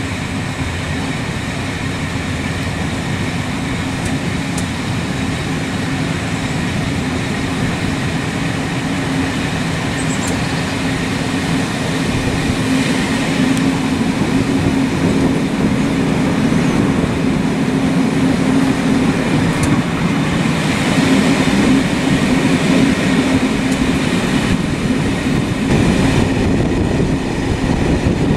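Steady running noise of a vehicle in motion, growing louder about twelve seconds in.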